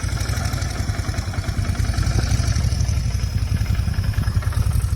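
Vehicle running while being driven: a steady low engine and road rumble.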